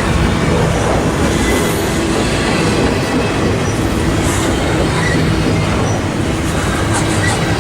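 Freight train rolling past at close range, a loud steady rumble of cars on the rails with a few short wheel squeals in the second half.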